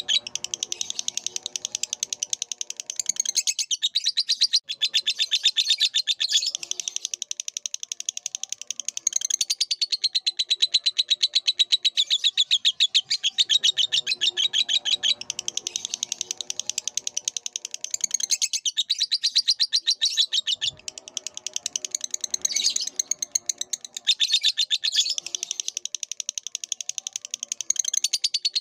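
Lovebird singing a long, unbroken stream of rapid, high-pitched chirps and twitters, with softer chatter underneath at times.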